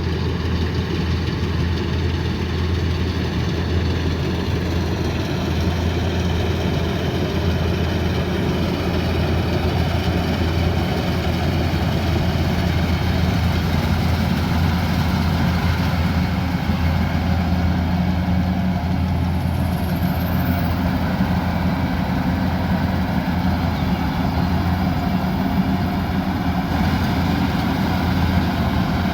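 Kubota combine harvester's diesel engine running at a steady, even speed.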